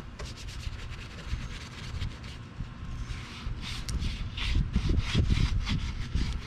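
Quick, repeated scrubbing strokes on engine-bay surfaces during detailing, growing louder and faster about halfway through, over a low steady rumble.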